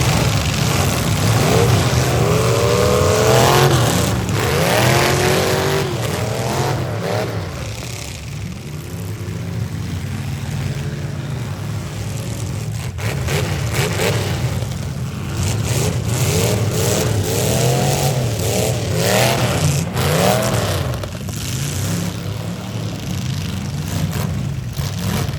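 Several V8 demolition-derby cars' engines running and revving up and down over and over, with sharp bangs of cars colliding scattered through, more of them in the second half.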